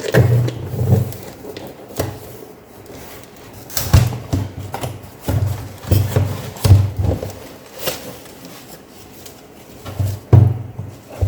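Irregular knocks, taps and rubbing from handling and opening the packaging of a replacement laptop keyboard.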